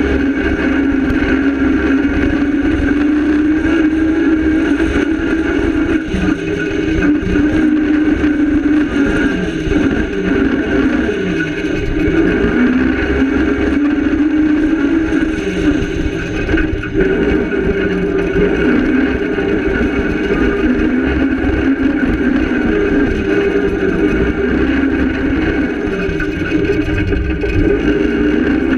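Cross-country rally car's engine running hard at speed, heard from inside the cabin, its pitch repeatedly rising and dropping with throttle and gear changes over a steady low rumble.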